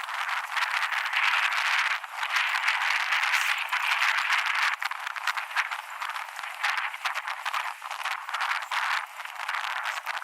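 Wind buffeting the microphone during a board ride, mixed with dense rattling and clicking.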